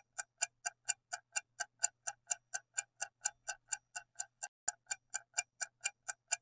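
Steady, rapid clock-like ticking, about four to five ticks a second: a quiz countdown-timer sound effect running while the answer is awaited.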